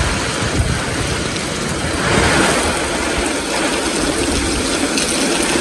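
Heavy rain pouring steadily in a downpour, a dense even hiss.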